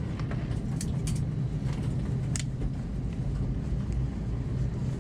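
Cabin noise of an Airbus A320-212 on the ground after landing, most likely taxiing: a steady low rumble from the running engines and rolling aircraft, with a few sharp light clicks inside the cabin.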